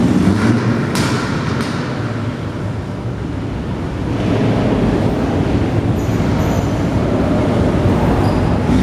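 Car engines and exhausts rumbling as cars drive past, with a couple of sharp cracks about a second in and a louder rumble from about four seconds in.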